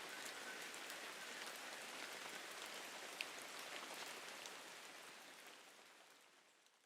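Steady rain falling on a surface, an even hiss with scattered individual drop ticks, fading out over the last couple of seconds.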